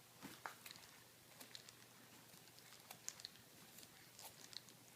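Faint, scattered small clicks and crunches, irregular, a few a second, over near silence.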